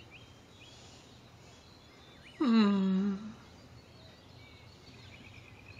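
Faint bird chirps in the background, broken about two and a half seconds in by a single drawn-out spoken word that falls in pitch and then holds.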